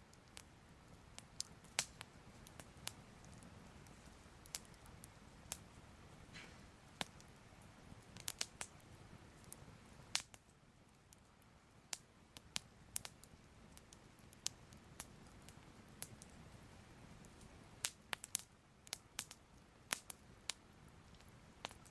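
Soft, faint crackling of a fire: irregular sharp pops and crackles at uneven intervals over a low background hum.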